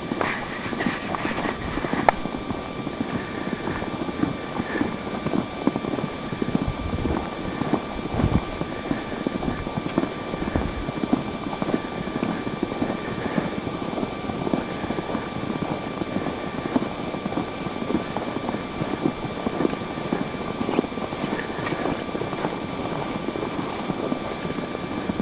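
Footsteps crunching through deep snow in an irregular walking rhythm, with blizzard wind buffeting the microphone in low gusts partway through.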